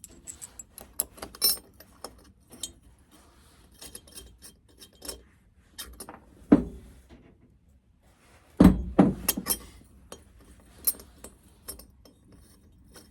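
Small metal engine parts clinking and tapping together as a cylinder head's valvetrain is assembled: the pushrod guide plate and rocker arms being handled and fitted. Scattered light clicks, with a few heavier knocks about six and a half seconds and nine seconds in.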